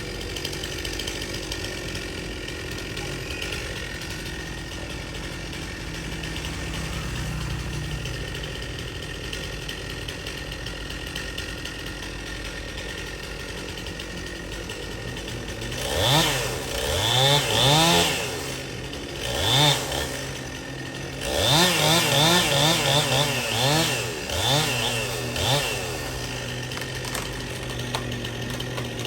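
Two-stroke Stihl chainsaw running at idle, then revved repeatedly in short rising bursts from a little past halfway, before settling back to idle near the end.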